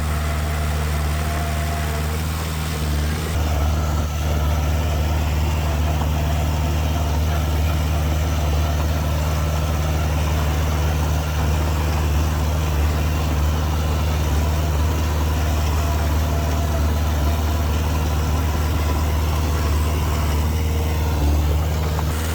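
Diesel engine of heavy earthmoving machinery running steadily at a low, even speed, with a constant low hum.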